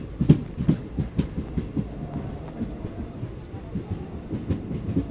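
DEMU train coach in motion, heard from its open doorway: a low running rumble with irregular knocks and clacks of the wheels and rattling coach body.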